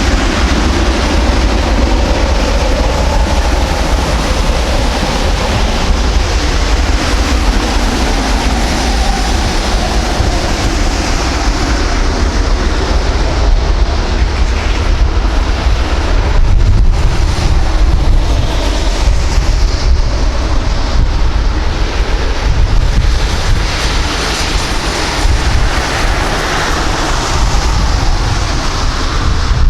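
Jet aircraft engines running in a steady broad rush, with a few faint wavering engine tones in the first part, mixed with wind buffeting the microphone as a heavy low rumble.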